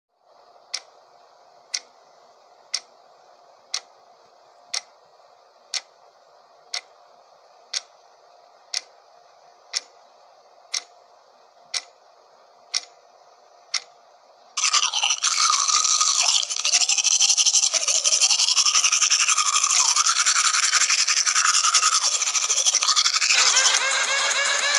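A clock ticking once a second over a faint hum. Then, about halfway through, loud teeth-brushing with a toothbrush scrubbing back and forth. Near the end a mobile phone ringtone comes in.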